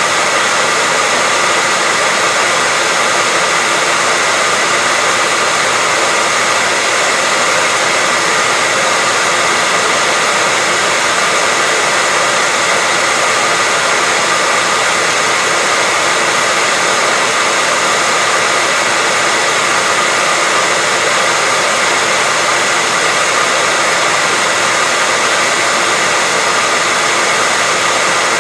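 Hair dryer running continuously at a steady speed: an even, unbroken rushing hiss of air with a faint whine from its fan motor.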